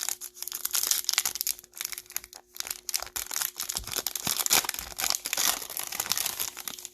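Foil wrapper of a Topps Chrome baseball card pack being torn open and crinkled, a dense crackling rustle with brief dips.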